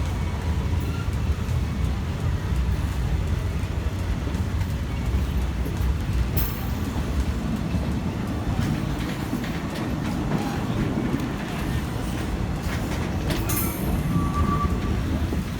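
Passenger train running on the rails: a steady low rumble of the carriage with wheel clatter, and a couple of brief sharp squeaks or clanks about six and fourteen seconds in.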